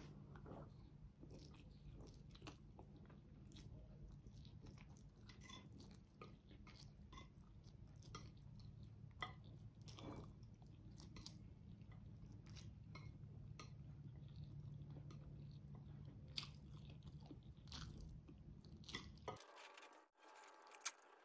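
Faint close-up chewing of a mouthful of spaghetti carbonara, with many small wet mouth clicks, over a low steady hum that cuts out near the end.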